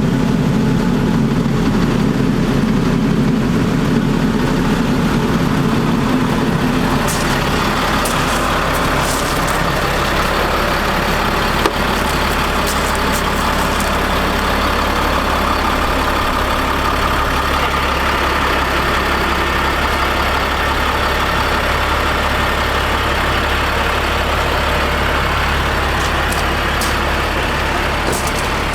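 Caterpillar C7 diesel engine of a Ford F750 bucket truck running steadily. About seven seconds in the sound changes, with a deeper steady hum and a higher running tone joining, and a few short clicks.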